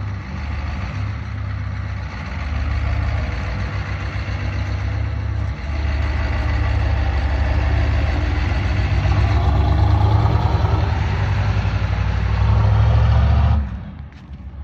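Diesel truck engine running, growing louder in steps as it is revved up, then dropping off suddenly near the end.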